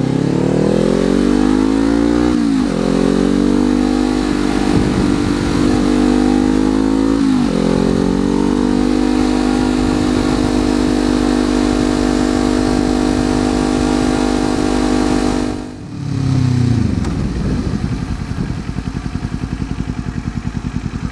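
Kawasaki Z400 parallel-twin engine through an Akrapovič exhaust, accelerating with rising revs and shifting up twice, about two and a half and seven and a half seconds in, then holding steady revs. About sixteen seconds in the throttle closes, the revs fall and the engine settles to a lower, throbbing run.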